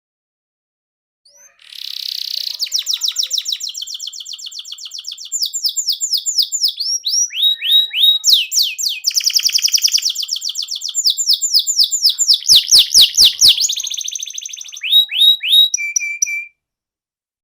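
Domestic canary singing a long song of rapid trills and fast repeated down-sweeping notes, starting about a second and a half in and cutting off abruptly near the end.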